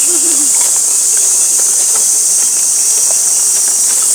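Dense chorus of summer cicadas: a loud, steady, high-pitched buzzing drone.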